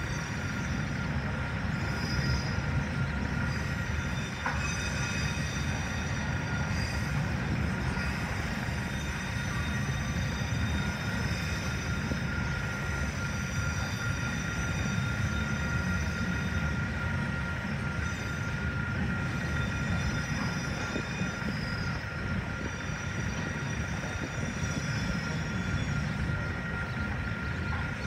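A long freight train of loaded log wagons rolling steadily past over a level crossing: a continuous low rumble with a steady high tone above it.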